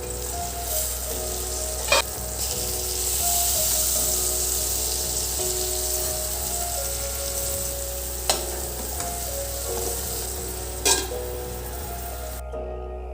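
Food sizzling as it fries, a steady hiss that cuts off shortly before the end, with three sharp knocks spaced a few seconds apart. Soft background music plays throughout.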